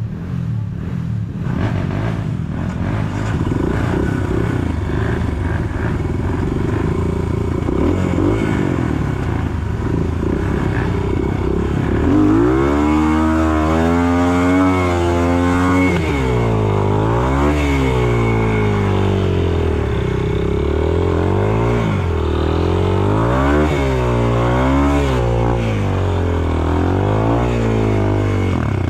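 Enduro motorcycle engine running hard on a muddy trail, its revs rising and falling again and again from about twelve seconds in, after a noisier, less even stretch at the start.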